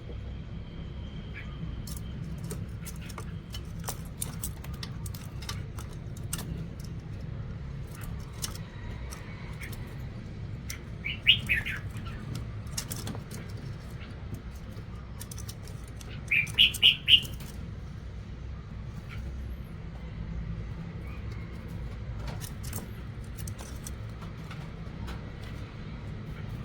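Bird chirps in two short bursts of three or four quick falling notes each, about eleven and sixteen seconds in, over a steady low hum and scattered light clicks.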